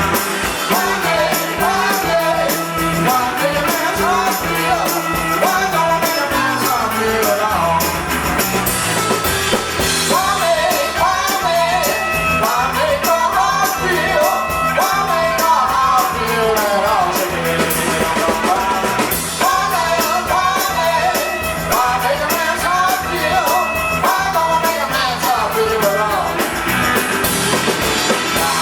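Live rock band playing loudly and continuously, with drum kit and pitched lines weaving over it.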